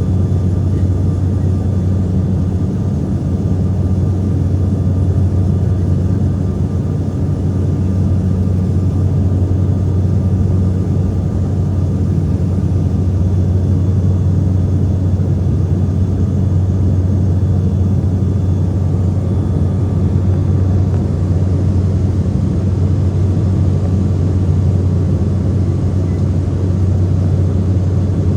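Steady low propeller drone and engine rumble of a Saab 340's twin turboprops, heard inside the cabin, with a faint high whine over it.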